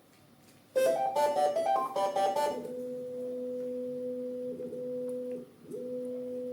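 Bambu Lab A1 3D printer playing its startup tune on power-up: a quick run of rising electronic notes, then a steady two-pitch tone that breaks off for a moment and starts again.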